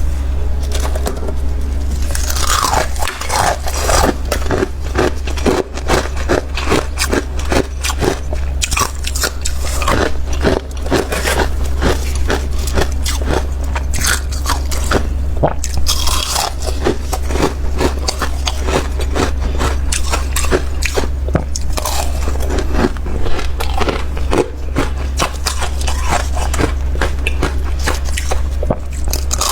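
Close-miked biting and chewing of powdery freezer frost: dense, rapid crunching that goes on without a break, over a steady low hum.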